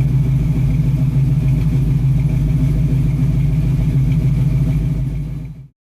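A car engine idling steadily with a deep, even rumble. It fades and cuts off near the end.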